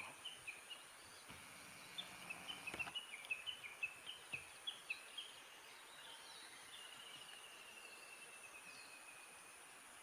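Small songbird chirping faintly: a quick run of short high chirps for about five seconds, then a thin rapid trill. A faint steady very high tone runs underneath.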